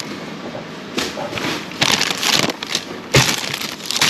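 Plastic bags and food packaging rustling and crinkling as discarded food is rummaged through, with a few sharp knocks of items being moved.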